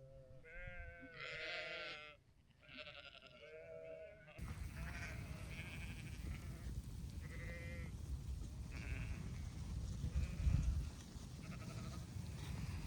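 A flock of sheep bleating, several overlapping calls. After about four seconds the sound changes abruptly to a steady low rumble with fainter, scattered bleats.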